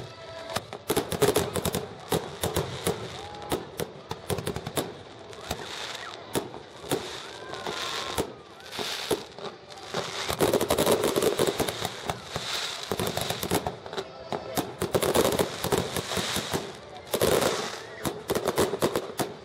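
A fireworks display: a dense, irregular run of bangs and crackles, with louder clusters of bursts now and then.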